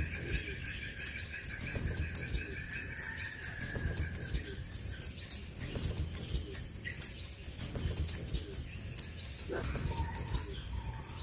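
Crimson sunbird calling: a long run of short, thin, very high chips, about three or four a second. Irregular low thumps sit underneath.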